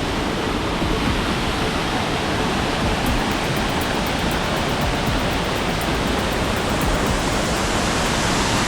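Waterfall, a steady rush of falling water with no breaks.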